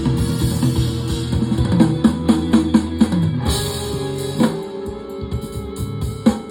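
Rock band music: a drum kit, plausibly the Ludwig kit being tracked, playing hard kick and snare hits over sustained bass and guitar chords. Near the end a held chord slides down in pitch.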